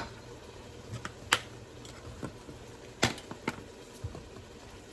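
A few light, scattered clicks and knocks of seasoning containers being handled and put away in a kitchen, about five over the few seconds.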